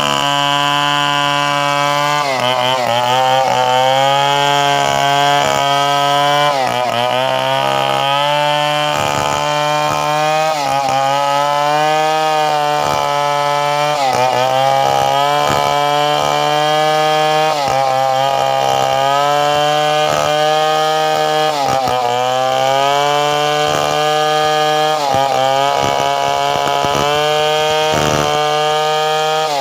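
Two-stroke chainsaw running at high revs and cutting wood, likely a coconut log. Its pitch sags briefly about every three to four seconds as the chain bogs in the cut, then picks back up.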